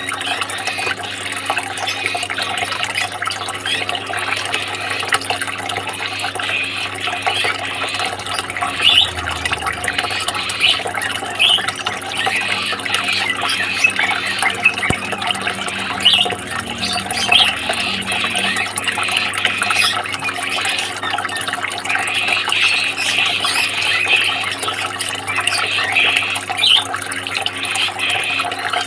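Continuous trickling, splashing water, steady throughout, with a faint steady hum underneath.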